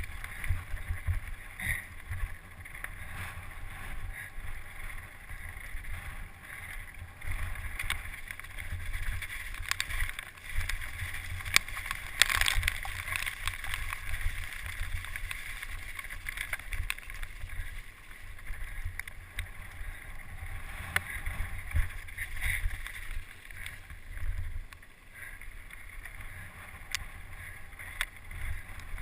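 Wind buffeting the microphone in a heavy low rumble, with a rushing hiss and many scattered sharp clicks and knocks, loudest about twelve seconds in.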